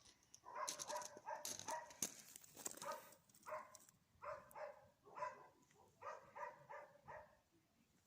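A dog barking over and over in short, faint barks, about two a second in bursts, with some sharp clicking through the first few seconds.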